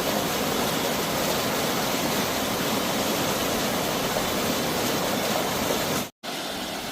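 Steady rushing of a waterfall's falling water. Near the end it drops out abruptly for a moment and comes back a little quieter.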